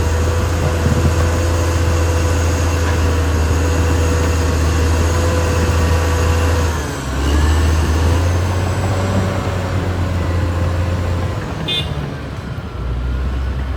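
Caterpillar D6R XL bulldozer's diesel engine running steadily under load, with a held whine over the low engine note. About seven seconds in the engine dips and its pitch bends before it picks up again, and a brief high squeak comes near the end.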